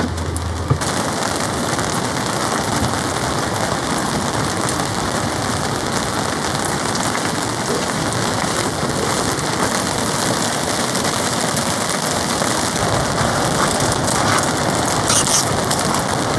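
Heavy rain falling steadily and beating on a polycotton (TC) tarp overhead.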